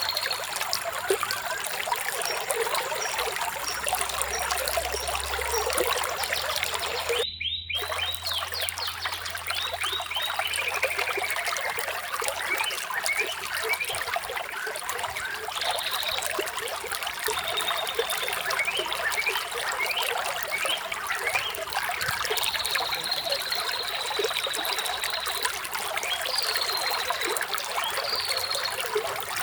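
Water trickling and flowing steadily, with birds chirping in short high notes now and then. The sound drops out for a split second about a quarter of the way in.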